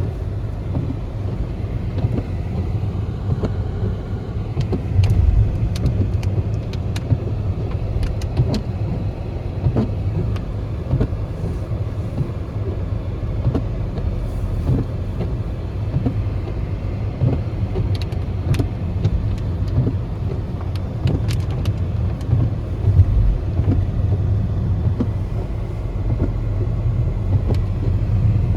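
A car driving on a snowy road: a steady low rumble of engine and tyres, with scattered short sharp ticks.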